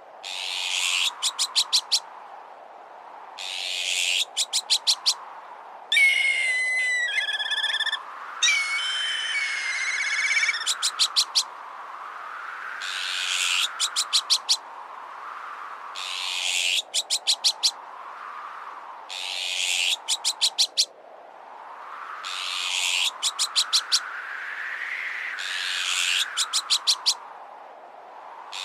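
Repeated harsh azure-winged magpie alarm calls, each a rasp followed by a quick run of sharp chattering notes, about every three seconds. From about six seconds in come a few seconds of black kite whistling calls. Underneath, a strong-wind whoosh swells and fades, rising and falling in pitch.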